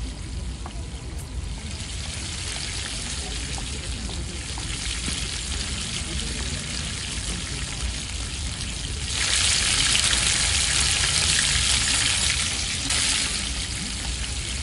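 Food sizzling and frying in a pan: a steady hiss over a low hum, growing louder from about nine seconds in and easing off near the end.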